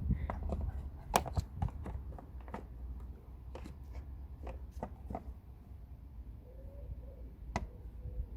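Irregular clicks, taps and rustles of a new air filter being handled and fitted into a plastic airbox, with a sharper single click near the end.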